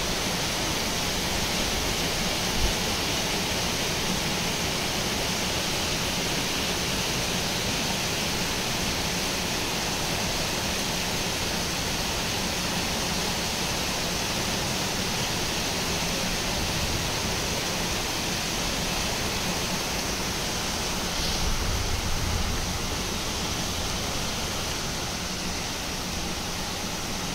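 Heavy rain pouring down steadily, a dense even hiss. A low rumble swells briefly about twenty-one seconds in.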